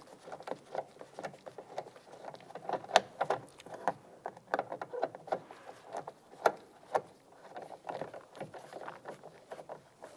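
Irregular light clicks and knocks as an exterior door handle is fitted into a Dodge Ram 1500 door and its Torx screw is started, parts tapping and rattling against the door shell.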